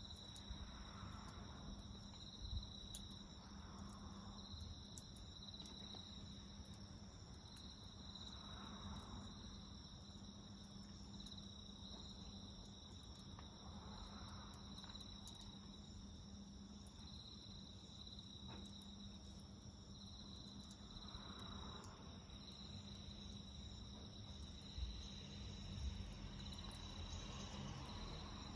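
Insects singing in a steady, high, slightly pulsing trill, with faint scattered crackles from a wood fire.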